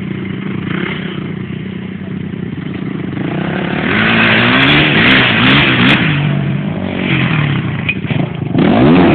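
Dirt bike engine running, steady at first. About four seconds in it grows louder and revs up and down several times.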